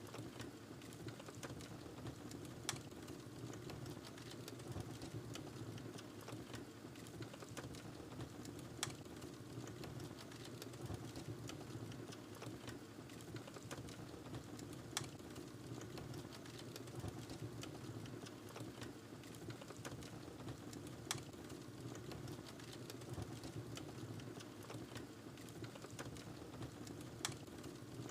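Wood fire in a fireplace crackling: a low steady rumble of burning with many small crackles, and a sharper pop about every six seconds.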